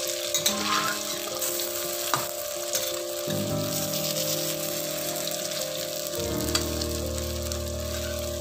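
Masoor dal pakoras sizzling in hot oil in a kadhai, with a few sharp metal clicks as a steel spatula turns them against the pan.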